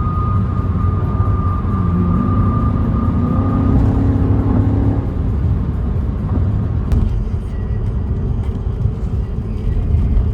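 A car's engine and exhaust running with a steady low rumble.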